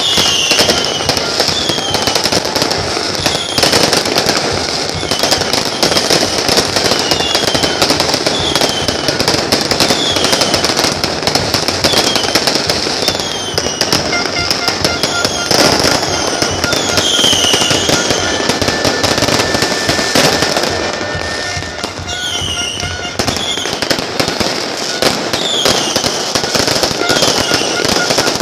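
Fireworks going off continuously as a dense, unbroken crackle of rapid bangs, with short falling whistles about once a second.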